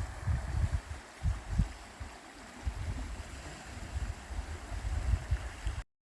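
Wind buffeting a smartphone microphone in gusts over the steady rush of moving river water. The sound cuts off abruptly near the end.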